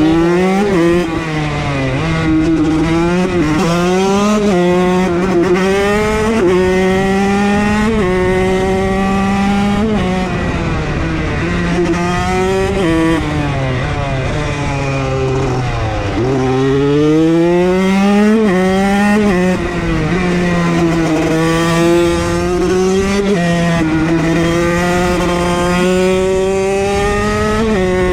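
Motorcycle engine ridden hard, its pitch climbing and dropping back with each quick gear change. About halfway through the rider eases off and the pitch falls, then the bike pulls up through the gears again.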